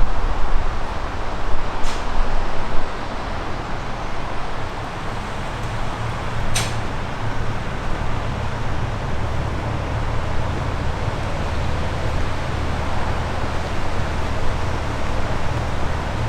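A railway diesel engine runs steadily with a low hum. There is a gust of wind on the microphone in the first couple of seconds, and two brief high-pitched hisses come about two seconds in and again near the middle.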